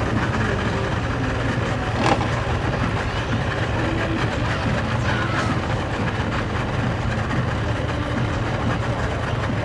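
Engine idling steadily with a low hum, with a single sharp knock about two seconds in.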